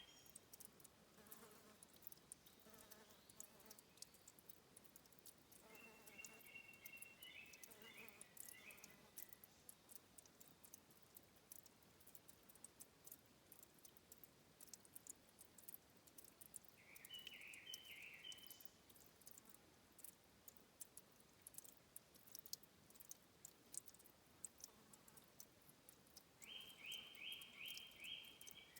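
Faint trickling and dripping water at a stream's source, heard as a scatter of soft clicks and ticks. A bird gives short runs of quick repeated chirps three times: about six seconds in, around seventeen seconds, and near the end.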